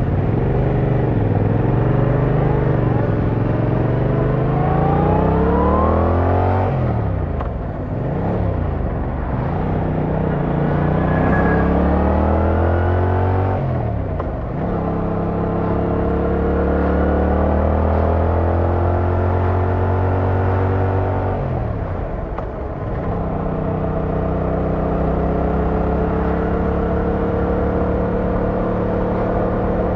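Yamaha MT-07's 689cc inline-twin engine and exhaust, heard from the rider's seat, pulling up through the gears. The revs climb and drop back sharply at each shift, then hold fairly steady while cruising, easing off briefly once more near the end.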